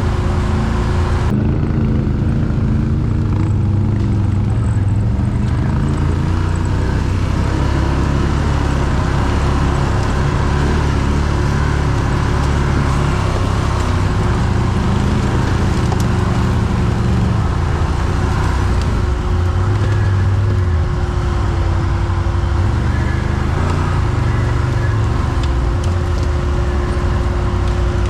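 ATV engine running continuously, its pitch rising and falling with the throttle, with a steady whine above it.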